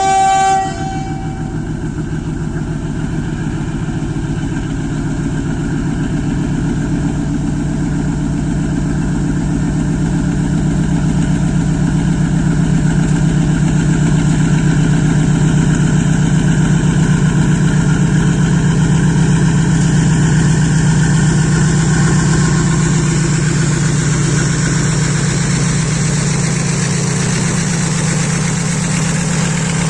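WDG-6G diesel-electric locomotive's engine running under load with a steady deep throb, growing louder over the first half and easing slightly near the end. A multi-tone locomotive horn cuts off under a second in.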